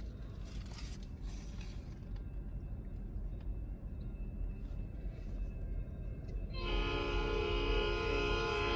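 Low rumble, then about two-thirds of the way in a locomotive air horn starts abruptly and holds a steady multi-note chord through the end.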